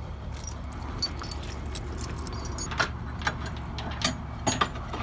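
Heavy metal chain clinking and rattling in a handful of sharp metallic knocks, mostly in the second half, over a truck engine idling steadily.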